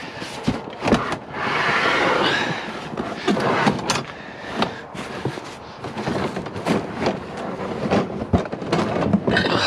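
Heavy scrap metal being shifted and lifted: repeated knocks, clanks and scraping, with a longer rush of scraping noise about a second and a half in.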